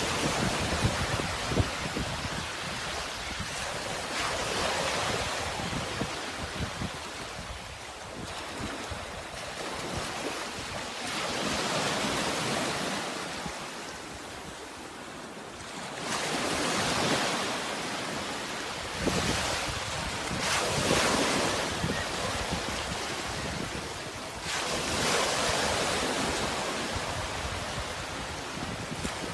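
Sea waves breaking and washing in, each surge swelling and ebbing every few seconds, with some wind.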